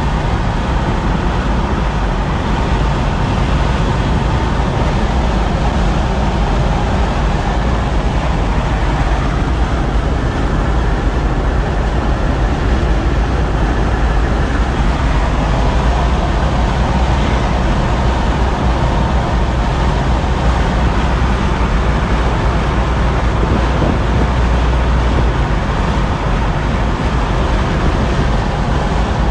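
2012 Chevrolet Camaro SS's 6.2-litre V8 car driving at a steady pace: a steady low rumble under even road and wind noise.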